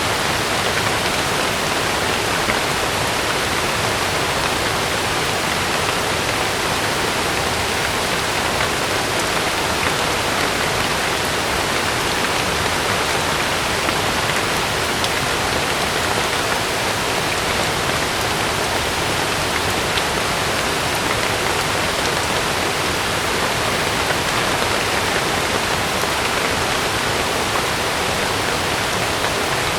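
Heavy rain falling steadily on a camping tent, an even hiss that stays the same level throughout, with no thunder.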